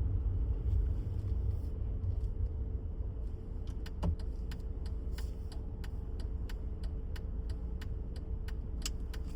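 Steady low rumble like a running vehicle, with a faint constant hum. About a third of the way in, a regular ticking begins, roughly three clicks a second.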